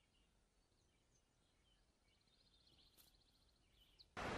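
Near silence with faint distant birdsong: a few scattered short chirps and a brief rapid trill. Near the end a louder steady hiss cuts in abruptly.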